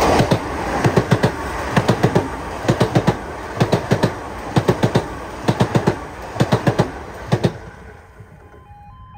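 Passing train's wheels clattering over rail joints in steady clusters of about four clicks, one cluster every second or so as each pair of bogies goes by, ending when the last carriage clears at about seven and a half seconds. Near the end, a faint two-tone level crossing alarm is left.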